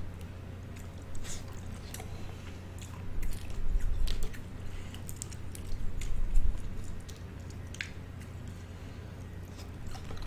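Close-miked eating of juicy boiled seafood: wet squishing, biting and chewing, with sharp little clicks throughout and louder bursts of mouth noise about a third of the way in and again past halfway.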